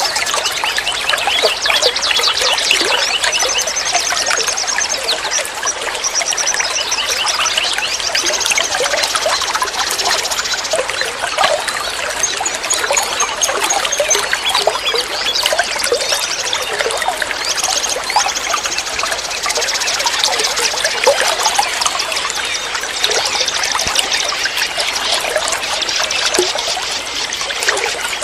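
Water trickling and gurgling steadily, as from a small flowing stream or fountain, with short runs of rapid high trilling now and then.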